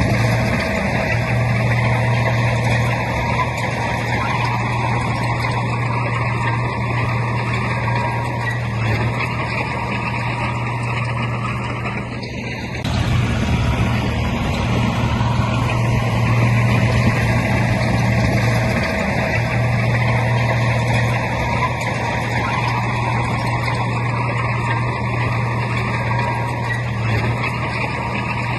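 Heavy diesel earthmoving machinery running steadily under load, a constant low engine hum with a brief drop in level about twelve seconds in.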